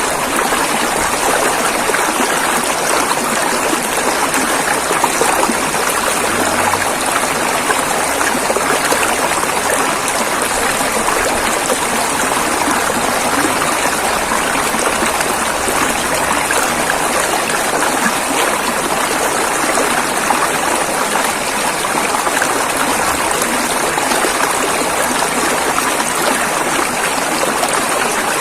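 River water flowing and rushing over rocks: a steady, unbroken wash of water noise.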